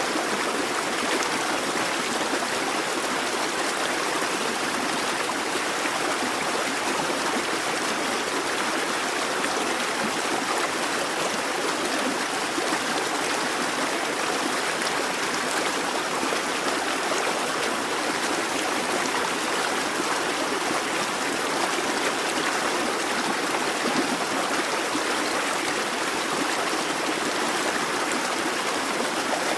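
A busy babbling brook: water running and gurgling steadily over stones.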